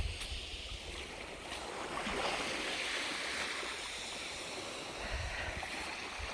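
Sea waves washing onto the shore, one wash swelling and fading away in the middle, with low wind rumble on the microphone near the end.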